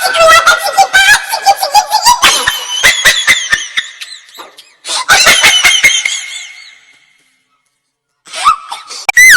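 Funny laugh sound effect: high-pitched, cartoonish laughing in quick bursts that thins out and fades away about seven seconds in. Another short effect starts just before the end.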